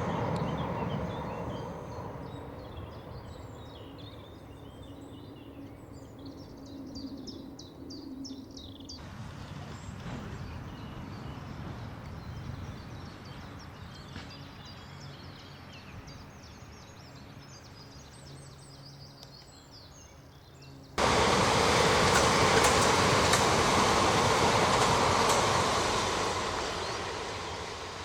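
Passenger train running past on the railway line. Its noise fades away in the first few seconds while small birds chirp. A second train comes through loud and sudden about three-quarters of the way in, then dies away near the end.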